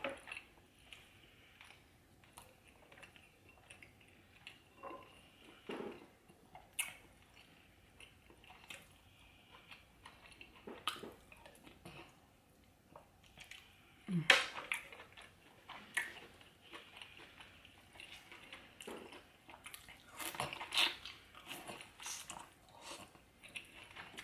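Close-miked eating of saucy seafood: quiet chewing, lip-smacks and wet clicks come in scattered bursts, with a louder smack about 14 seconds in.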